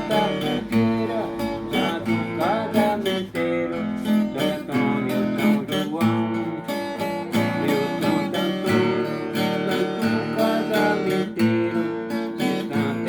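Instrumental introduction of a song: an acoustic guitar strummed in a steady rhythm over bass notes.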